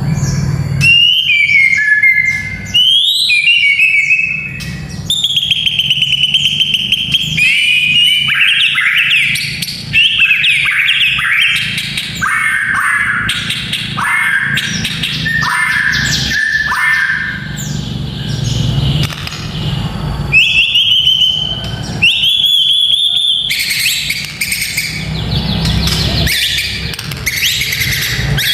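White-rumped shama (murai batu) singing a long, varied run of loud whistled phrases with quick rising and falling notes. Near the end come stretches of dense, dry chattering.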